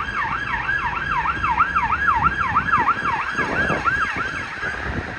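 Police car siren on a fast yelp, its pitch sweeping up and down about three times a second, fading out near the end.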